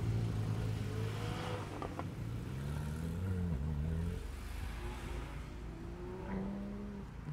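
Mercedes-Benz 190 (W201) car driving off at low speed, its engine note rising and falling in pitch as it pulls away. Near the end a second car, a silver Volkswagen, rolls up slowly with a steady engine hum.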